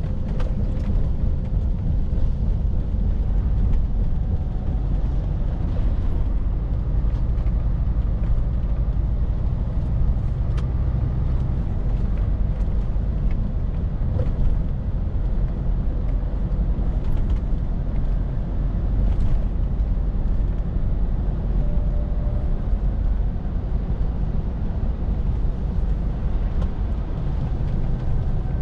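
Scania R450 lorry on the move: its 13-litre six-cylinder diesel and the road noise make a steady low rumble with no change in pace.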